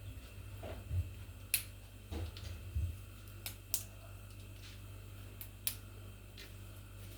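Kitchen handling sounds while spices are added: a handful of scattered sharp clicks and a few soft knocks, over a steady low hum.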